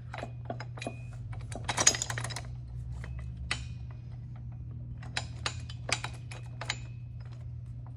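Steel bolts and mounting hardware clinking and tapping as they are handled and fitted to an engine block's threaded holes. There is a quick rattling flurry about two seconds in, then scattered single clicks, some with a short metallic ring.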